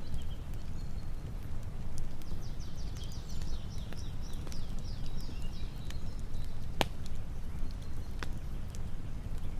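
A bird singing a fast run of high chirps for a few seconds, over a steady low rumble. Two sharp clicks come near the end, the first one the loudest.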